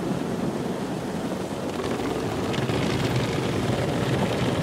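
Car wash water jets spraying onto the car body, a steady rushing noise heard from inside the car.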